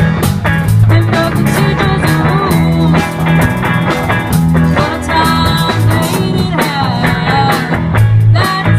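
Rock-blues band playing, with electric guitar, bass and drum kit and a melody line bending in pitch.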